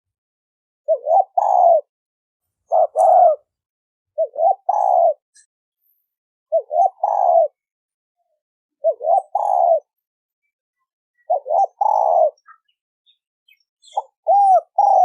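Spotted dove cooing its song: a phrase of two or three short coos ending in a longer coo, repeated about every two seconds, seven times.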